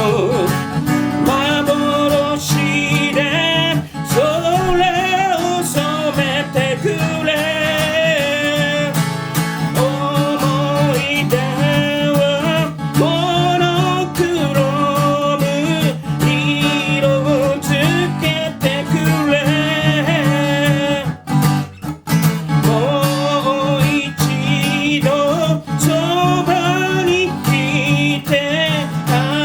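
Acoustic guitar playing chords under a singing voice that carries the melody, with a brief break in the sound about 21 seconds in.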